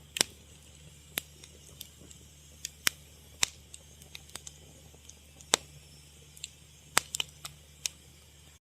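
Wood fire crackling: irregular sharp pops and snaps, a few loud ones among many faint ticks, over a steady low hum. The sound cuts out completely for a moment just before the end.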